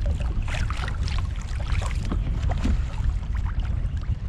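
Wind buffeting the microphone in a steady low rumble, with irregular light splashes and clicks of water and tackle as a hooked fish is brought in beside a kayak.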